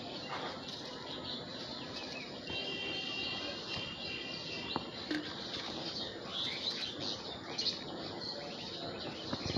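Birds chirping and calling over a steady outdoor background, with a buzzing call held for about two seconds starting around two and a half seconds in.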